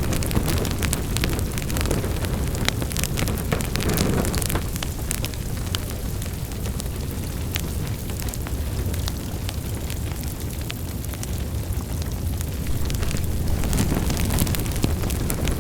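Wood fire burning in a fireplace: a steady low rumble of flames with frequent irregular crackles and pops, thinning out midway and picking up again near the end.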